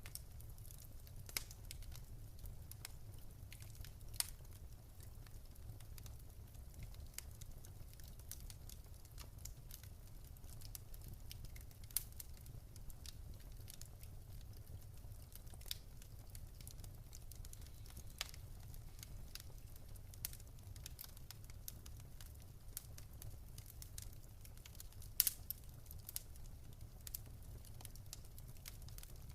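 Wood fire crackling in a fireplace: irregular sharp pops and snaps over a low steady rumble, with a few louder pops about 4, 12 and 25 seconds in.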